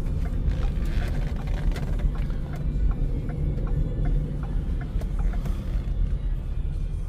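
A 2014 Ford Edge running with a steady low rumble, with music playing over it.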